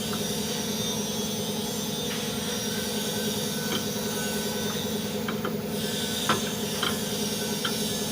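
A steady machine hum with a few light, sharp clicks or taps in the second half.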